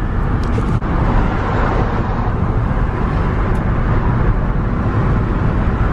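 Steady rumble of a moving car: engine and road noise, with a short click a little under a second in.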